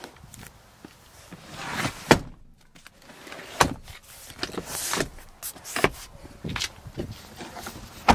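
Irregular clunks and latch clicks with rustling as a 2012 Kia Sorento's seat and door hardware is handled; the sharpest clunks come about two seconds in and at the very end.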